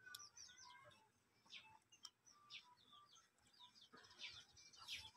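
Near silence with faint bird chirps: short high notes scattered throughout.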